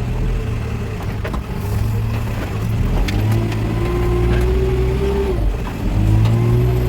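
Backhoe loader's diesel engine working. Its pitch rises about three seconds in, dips briefly and rises again near the end. Scattered knocks sound over it.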